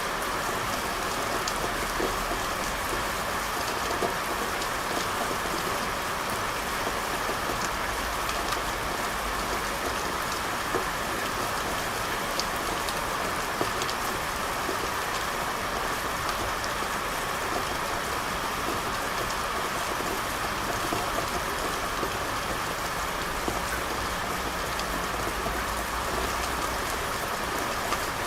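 Steady rain falling on hard surfaces, a constant even hiss with scattered small ticks of individual drops.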